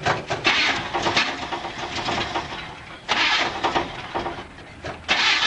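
Starter cranking a 1965–66 Buick's engine in three separate tries, with quieter gaps between them; the engine does not catch and run.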